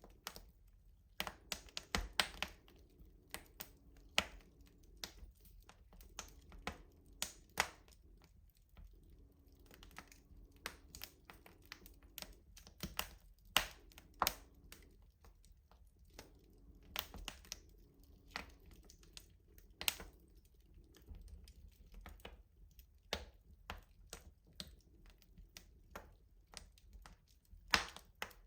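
Wood fire crackling in a rustic stove: irregular sharp snaps and pops, several a second at times, over a low steady hum of the burning fire.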